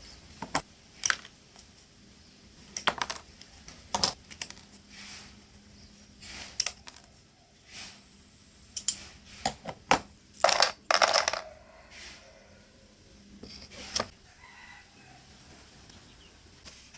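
Irregular clicks, taps and knocks of small hard parts being handled, a dozen or so short hits with a louder cluster about two-thirds of the way through.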